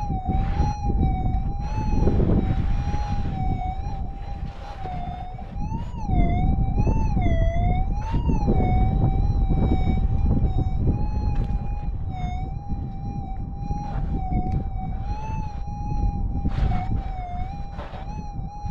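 Gold metal detector's continuous threshold tone, a single pitch with overtones, wobbling up and down in pitch a few times about six to eight seconds in as the coil sweeps ground the prospector calls noisy. Underneath are a low rumble and scattered clicks of handling and ground contact.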